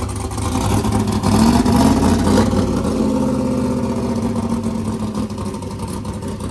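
The limousine's engine running, revving up briefly about a second in and settling back down. The limo is described as twin-turbo and has recently been flooded.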